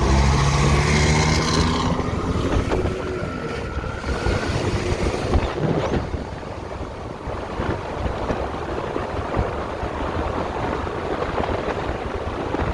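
Wind rushing and buffeting over the helmet microphone of a rider on an electric motorcycle at speed, his visor open. A whine rising in pitch is heard over the first few seconds.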